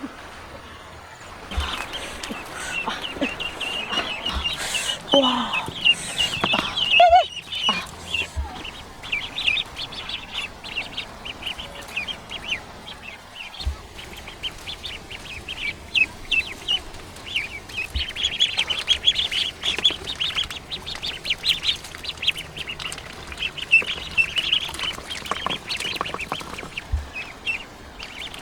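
Ducks and geese calling: a dense stream of short, high calls throughout, with a louder, lower call around five to seven seconds in.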